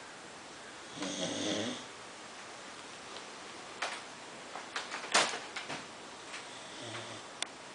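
American Bulldog snoring: one long snore about a second in and a fainter one near the end. Between them comes a run of sharp clicks, the loudest of them around the middle.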